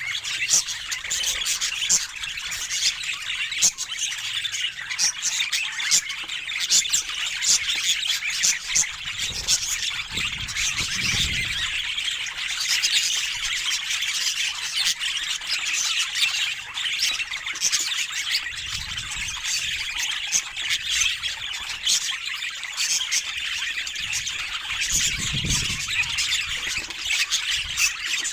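Budgerigars chattering continuously: a dense stream of warbles, chirps and short sharp squawks.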